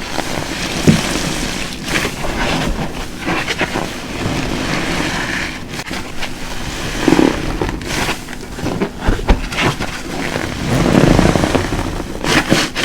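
Large car-wash sponge soaked with Fairy dish soap being squeezed and worked by hand, wet squelching and crackling lather in repeated surges, with a longer, louder squeeze near the end.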